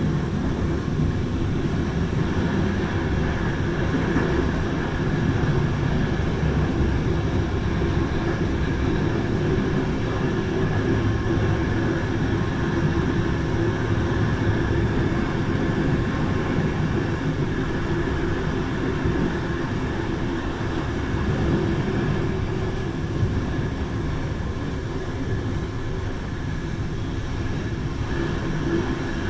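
Passenger train running, heard from the rear door of the carriage: a steady rumble of wheels on the track with a faint high hum.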